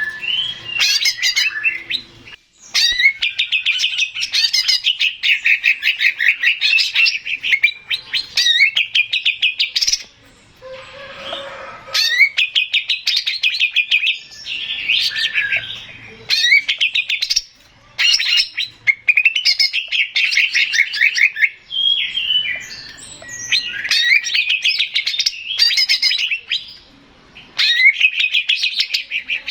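Male green leafbird (cucak ijo) singing: long runs of rapid, chattering notes, each run lasting a few seconds, broken by short pauses.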